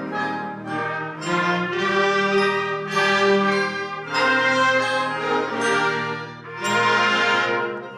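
Concert wind band playing, brass to the fore, in loud swelling phrases with a brief dip just before the last one.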